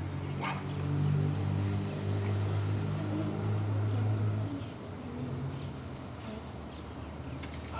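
A low, steady engine hum, like a passing vehicle or aircraft, loudest through the first half and fading out about four and a half seconds in. A single sharp click comes about half a second in.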